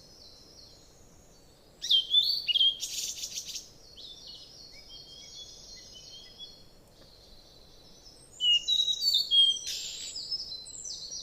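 Small songbirds chirping and calling: a busy flurry of high chirps about two seconds in, sparse chirps after it, and another busy flurry near the end.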